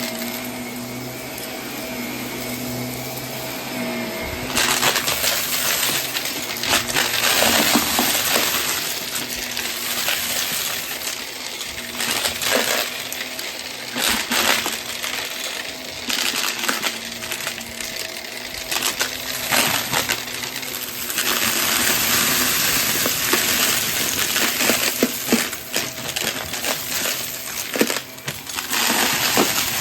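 Vacuum cleaner running with a steady motor hum. From about four seconds in, hard bits of debris rattle and clatter as they are sucked up in dense, on-and-off runs.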